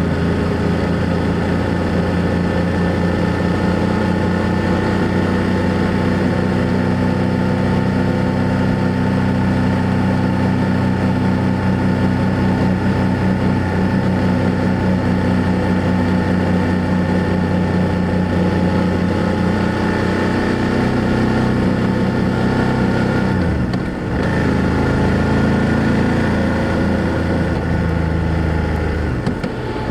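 BMW F800GS parallel-twin engine and exhaust running steadily under way at cruising speed. The engine note briefly dips in level about three-quarters of the way through and again at the very end, then picks back up.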